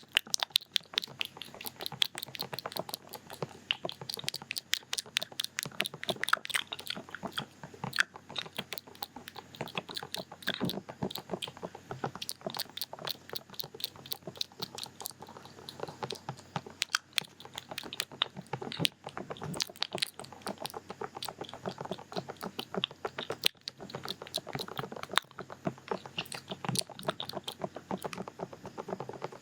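Close-miked, quick and irregular tapping and clicking on an ASMR ear microphone: the 'duk-duk' ear sounds, several taps a second throughout.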